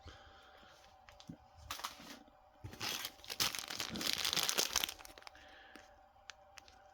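Crinkling and rustling of fireworks packaging as packs are handled and moved around, in a short burst about two seconds in and a longer, louder spell from about three to five seconds in.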